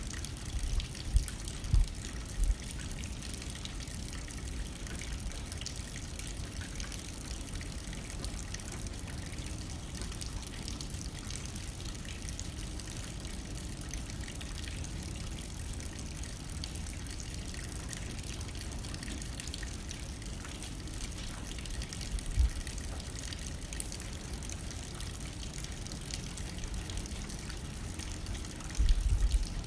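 Steady rain on a window, with fine drops ticking throughout. Brief low gusts of wind come about a second in, about three-quarters of the way through and again near the end.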